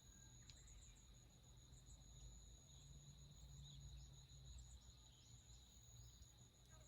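Faint forest ambience: insects trilling steadily at a high pitch, with a few brief, high bird chirps scattered through. A low rumble sits underneath.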